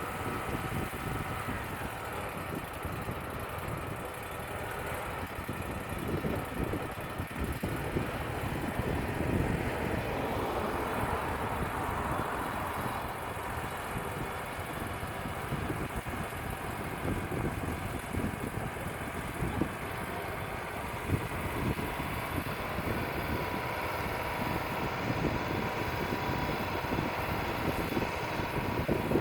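Wood-Mizer LT35 portable band sawmill running with a steady engine drone, and wind gusting on the microphone.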